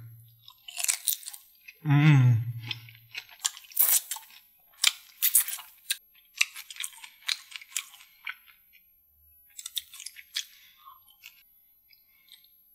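Close-miked chewing of a devilled prawn: wet mouth clicks and crunches in irregular bursts, with a short hummed 'mmm' about two seconds in. The chewing fades out a second or two before the end.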